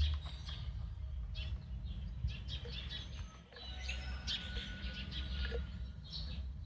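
Small birds chirping intermittently over a steady low hum.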